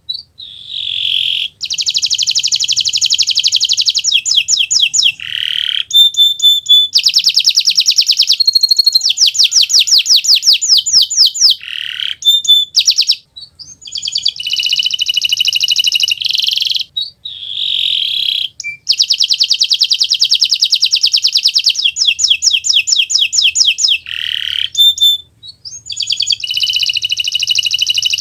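Kenari Nusantara (Indonesian-bred domestic canary) singing continuously: long runs of fast repeated high notes and trills that change every second or two, broken by brief pauses.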